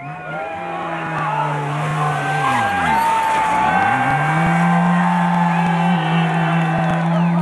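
Trabant rally car's two-stroke twin engine running hard at high revs. Its note drops sharply about three seconds in, then climbs back within a second and holds a steady high pitch.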